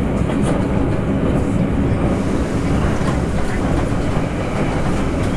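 Steady running noise heard inside a passenger car of a Taroko Express tilting electric train at speed: the rumble of wheels on rail, with a few faint clicks from the track.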